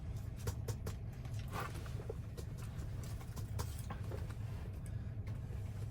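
Scattered light clicks and taps, like small objects being handled, over a steady low hum.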